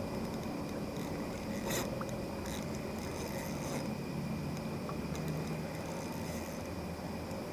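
Steady rush of flowing river water with a few short clicks and scrapes, the sound of a fishing reel and line being worked as a hooked fish is brought in.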